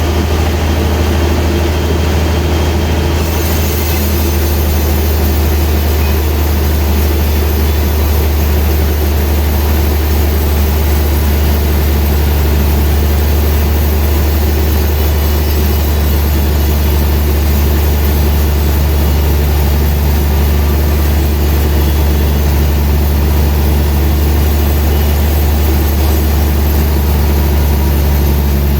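Sawmill machinery running steadily with a loud low hum. A higher hiss joins about three seconds in, and another low tone about twelve seconds in.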